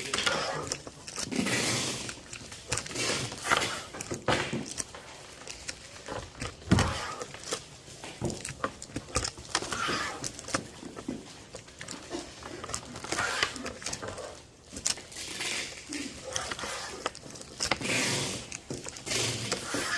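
Oil-based permanent markers being handled and packed by hand: irregular clicks, taps and scraping or rustling of small plastic items, with the odd louder knock.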